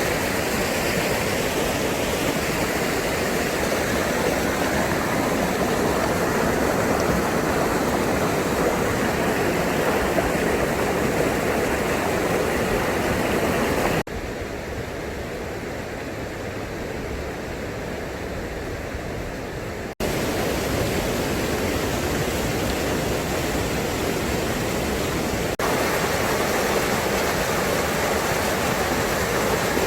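Mountain valley stream rushing, a loud steady roar of water. It drops and rises abruptly at a few edits, about 14 and 20 seconds in and again near 26 seconds.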